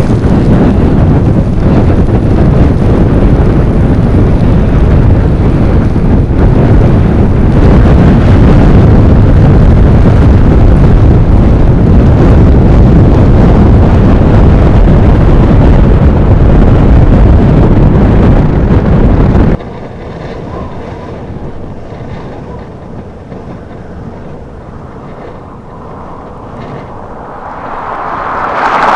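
Blizzard wind blasting the microphone: a loud, low, steady rush. About twenty seconds in it cuts off abruptly to a much quieter steady noise, which swells again near the end.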